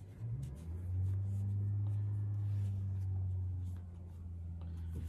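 Vehicle engine revving in the garage below, heard through the floor as a steady low hum that swells about a second in and eases off near the end.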